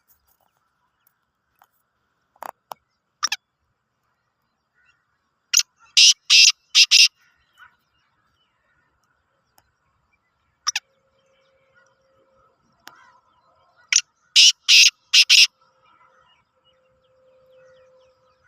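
Black francolin calling: a couple of short single notes, then a loud, harsh phrase of four quick notes, a lone note, and a second four-note phrase about eight seconds after the first.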